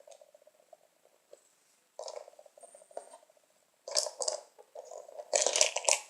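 Small plastic toy pieces being handled and set down: short bursts of clicking and clattering about two seconds in and again about four seconds in, then a longer spell of rattling near the end.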